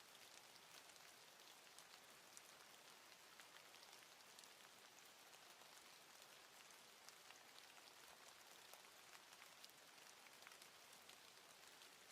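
Near silence: a faint steady hiss with tiny scattered ticks.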